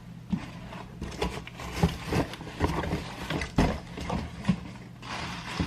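A cardboard box being opened and the balance bike's parts lifted out: irregular knocks and scrapes of handling, with a stretch of rustling near the end.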